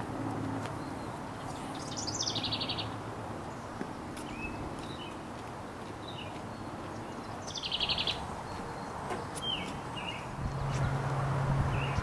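Songbirds calling: a fast high trill about two seconds in and again near eight seconds, with scattered short chirps between, over a steady low background hum.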